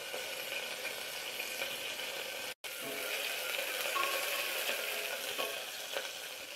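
Green chillies and sliced onion sizzling in hot oil in a steel pressure cooker, stirred with a wooden spatula. The sizzle cuts out for a moment about two and a half seconds in.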